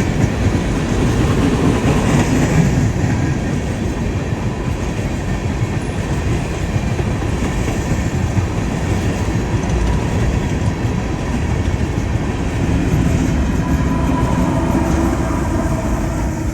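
Freight train rolling past, its wheels clacking over the rail joints under a steady rumble.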